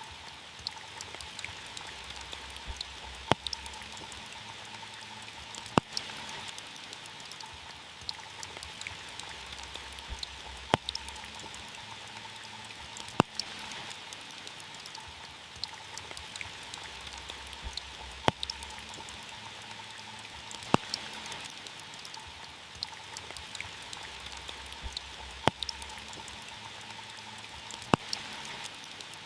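Steady rain pattering on a car's roof, with single louder drops striking sharply every few seconds.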